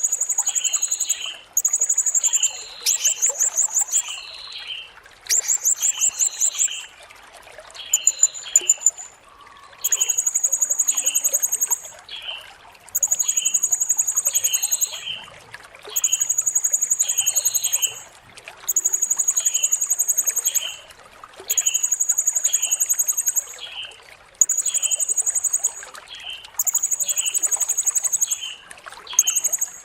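Blue-crowned hanging parrot (serindit) singing: high, shrill trills of one to two seconds, repeated every two or three seconds, stuttering in the first few seconds and smoother later. Short, lower chirps run underneath at about two a second.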